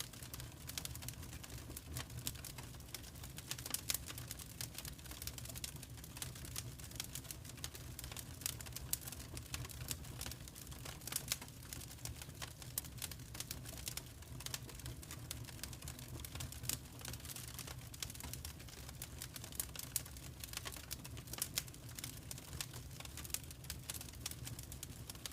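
Wood fire crackling in a fireplace: a dense, irregular run of small snaps and a few louder pops over a steady low rumble.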